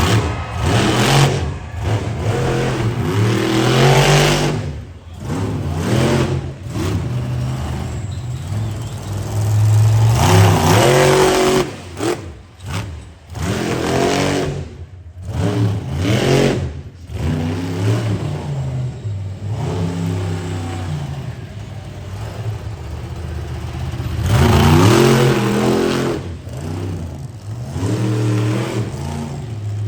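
Monster truck engine revving hard and letting off again and again during a freestyle run, its pitch climbing in repeated surges with short drops between them.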